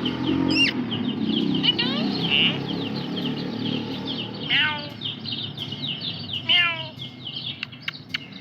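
Birds chirping busily in quick high notes, with two stepped, falling whistle runs, one about halfway through and one near the end. A low murmur like voices runs under the first half.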